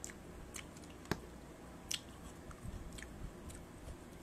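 A person quietly chewing a mouthful of noodles, with scattered small sharp clicks and smacks, the loudest a little over a second in.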